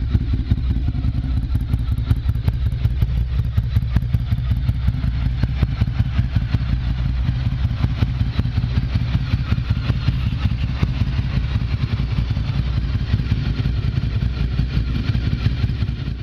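Ducati Monster 1100 EVO's air-cooled L-twin running steadily at idle through a full Termignoni exhaust, with a rapid, even pulsing beat.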